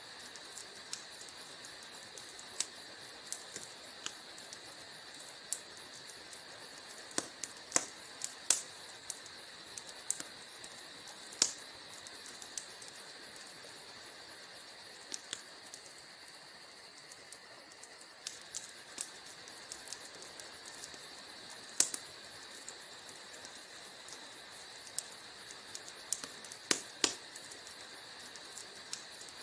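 Wood fire burning in a fireplace: a steady hiss with irregular sharp crackles and pops, a few of them much louder than the rest.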